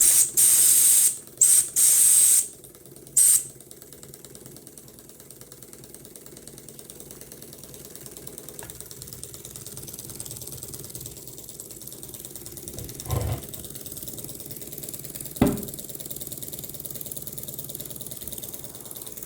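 Mamod steam showman's engine: several short, hissy toots of its small steam whistle in the first few seconds, which the owner thinks should sound better and hopes will improve as the whistle wears in. Then the engine runs steadily with a fast, even mechanical ticking, with two brief knocks later on.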